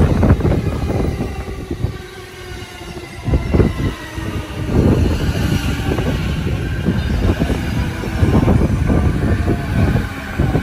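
JR Keiyo Line electric commuter train running past close by: a loud rumble of wheels on the rails, broken by a string of uneven thumps as the cars go by.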